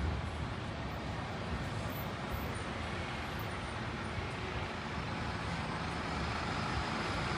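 Steady city road traffic: a continuous low rumble of vehicles with no single event standing out.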